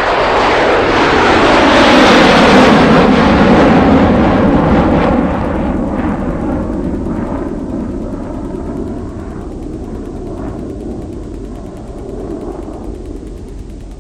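F-35A Lightning II fighter jet's single F135 turbofan engine roaring past in a flyby. The roar peaks about two seconds in, drops in pitch as the jet passes, then fades slowly.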